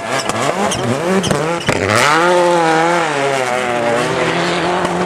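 Škoda Octavia WRC rally car's turbocharged four-cylinder engine revving hard in short rising bursts, with sharp pops between them. About two seconds in, a loud crack is followed by a long held engine note that wavers and slowly drops.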